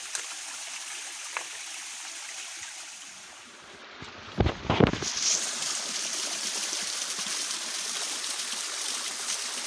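Stream water running steadily over rocks. About four seconds in comes a short cluster of loud thumps, after which the rushing water is louder.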